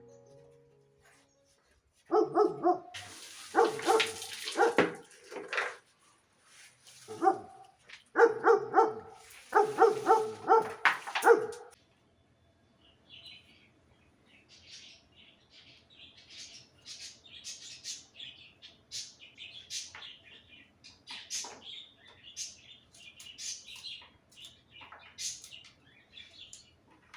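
A dog barking in two bursts of several loud barks, then small birds chirping.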